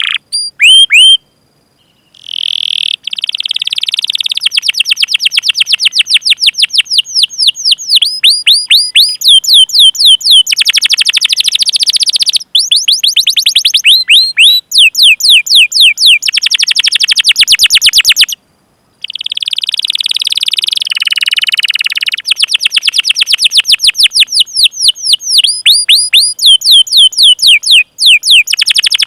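Domestic canary singing in long rolling trills of rapidly repeated, downward-sweeping 'cuit cuit' chirps, with short breaks about two seconds in and again about two-thirds of the way through.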